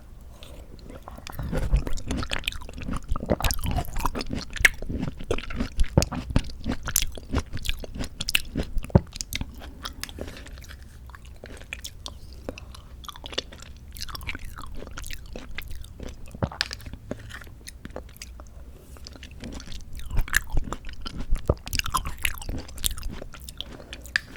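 Close-miked chewing of mandarin orange segments from a fruit cup: wet, irregular clicks and squishes of the mouth. It is busiest in the first half and again near the end, with a quieter stretch in the middle.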